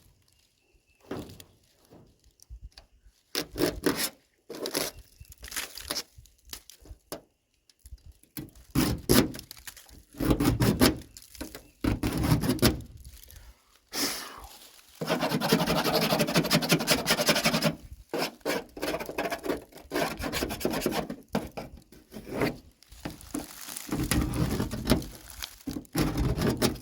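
Hand work on old car body parts: a run of clicks, knocks and scrapes as trim pieces and their rusted barrel clips are handled and pried. About halfway through there is a steady scraping rub lasting about three seconds.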